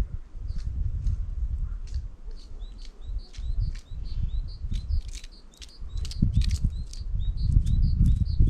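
Small songbirds chirping in a quick, busy series of short high notes, growing livelier after the first couple of seconds, over a louder low rumble that fades in the middle and returns near the end.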